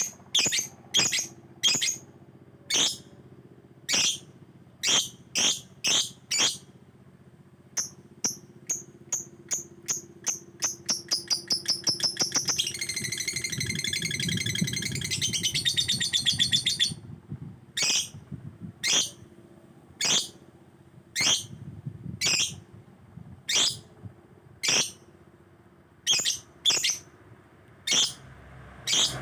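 Yellow lovebird calling: sharp, high chirps about once a second, speeding up into a fast run about eight seconds in, then about four seconds of continuous rapid chattering trill, before single chirps resume.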